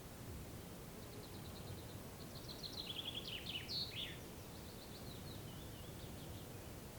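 A songbird sings one phrase: a run of quick high notes that builds into a few louder downward-sweeping notes about three seconds in, then trails off in softer notes. Under it is a faint, steady low background noise.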